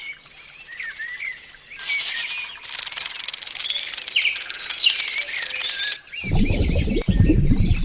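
Short high chirping calls, like small birds, over a steady hiss. About six seconds in, the sound cuts to a low buzzing drone.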